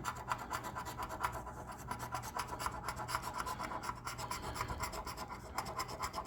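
Scratch-off lottery ticket being scratched: the coating is scraped off in quick, short, repeated strokes.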